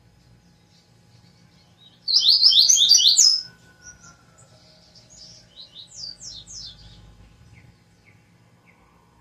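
A songbird singing: a loud, fast burst of sharp, high, descending notes about two seconds in, lasting about a second. A softer phrase of separate downslurred notes follows around six seconds in.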